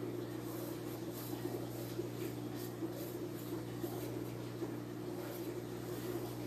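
A steady low hum, with faint light scratching and ticking over it.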